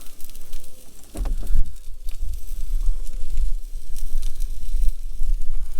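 Heavy, uneven low rumble of wind and handling noise on the microphone while the truck topper door is pushed open, with a short falling squeak about a second in and faint crackles from the frying pan.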